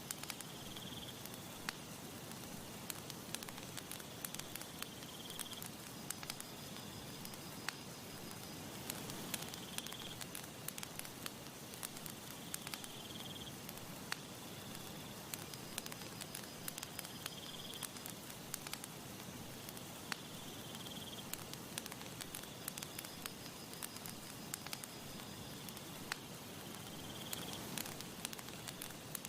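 Campfire crackling and popping steadily over a soft hiss, with a high insect trill repeating every few seconds.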